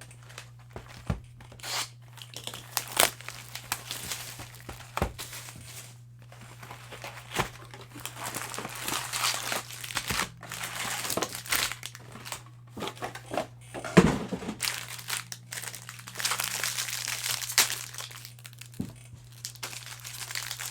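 Sealed baseball card boxes and packs being torn open by hand, the wrappers crinkling and tearing in irregular bursts, with scattered clicks and one sharp knock about two-thirds of the way through.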